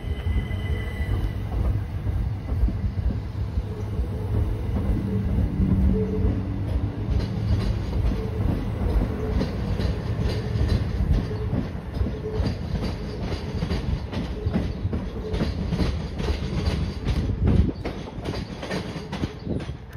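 Southeastern passenger train running past the platform and away into the tunnel: a steady rumble with some hum at first, then a fast run of wheel clicks over the rail joints through the second half, with a loud knock near the end before it fades.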